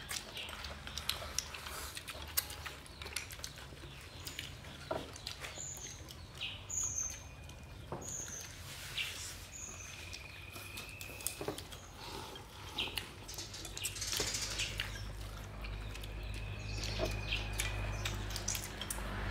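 Birds chirping in the background: a run of four short, high chirps about six seconds in and a few longer whistled notes, over light clicks and clinks of chopsticks against bowls as people eat.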